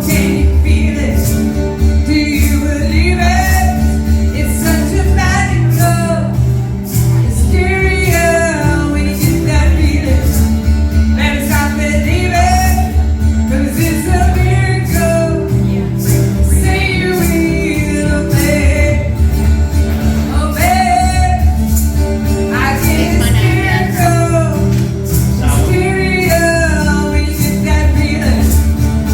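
A two-piece band playing live: a singer's sung phrases over full instrumental backing with a heavy bass and a steady drum beat.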